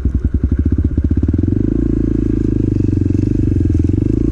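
Motorcycle engine with a loud exhaust, heard from a microphone inside the rider's helmet: a low-revving chug of separate firing pulses that quickens about a second in as the bike accelerates, settling into a steadier, faster run.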